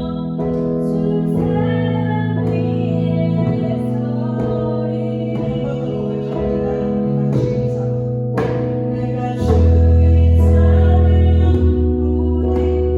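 Worship song: sustained accompaniment chords with a deep bass note coming in about nine and a half seconds in, scattered djembe strokes and singing.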